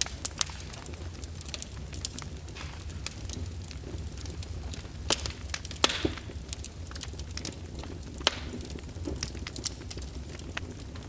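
Fire crackling in a fireplace: frequent sharp pops and snaps, irregularly spaced, over a steady low rumble. The loudest pops come about five and six seconds in, with a brief hiss around the second of them.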